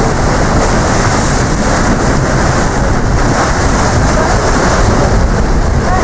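Strong wind buffeting the microphone, a loud steady rumble with no break.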